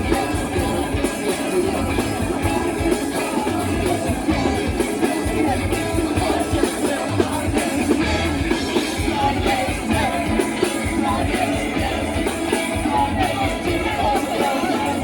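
Rock band playing live, with a singer's voice over guitars and drums.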